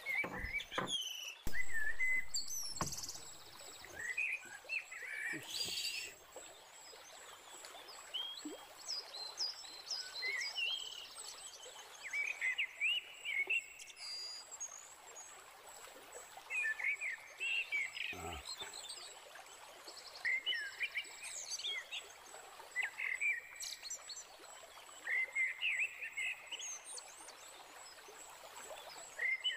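Wild birds singing: clusters of short, chirpy, quickly gliding notes repeated every few seconds, over a thin steady high tone. A few sharp knocks near the start.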